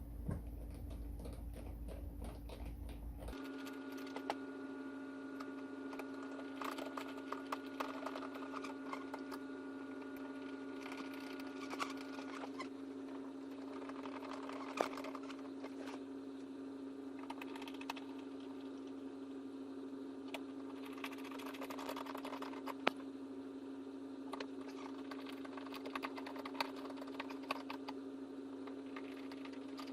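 Irregular small clicks and taps of screws being driven by hand with a screwdriver into pilot holes in a plastic ride-on toy's body, with parts shifting and knocking now and then, over a steady low hum.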